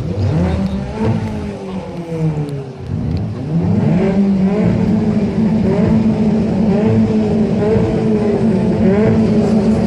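A modified car's engine revs up sharply twice, then is held at high revs, its pitch wavering slightly.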